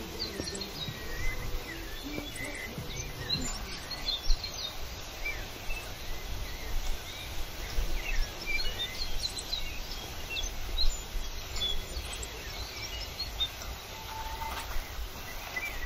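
Small birds chirping and calling on and off, many short quick chirps, over a low steady background rumble.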